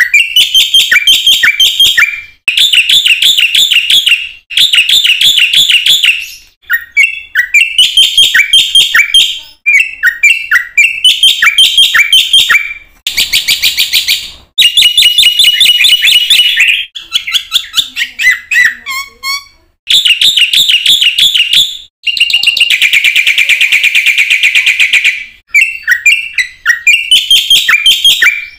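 Black-winged myna (jalak putih) singing loudly in full song: phrases of about two seconds of rapid, repeated chattering and whistled notes, one after another with brief breaks between.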